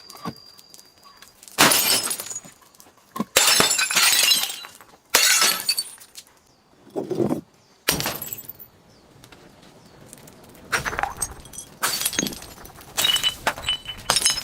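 Glass bottles breaking in a series of about ten crashes of shattering and crunching glass, each followed by a brief tinkle of fragments.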